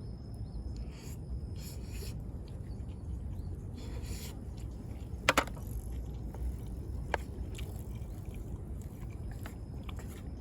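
Eating from an aluminium mess tin: a utensil scraping and clicking against the tin, with a sharp double click about five seconds in and another click about two seconds later, over a steady low rumble.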